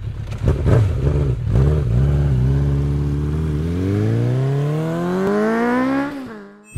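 Engine revving: a few short blips of the throttle, then one long, steady climb in revs that falls away near the end.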